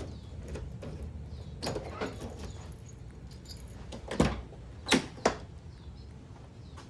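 Metal lifting hooks clinking and clanking as they are handled, with a few sharp metallic knocks, the loudest three about four to five seconds in.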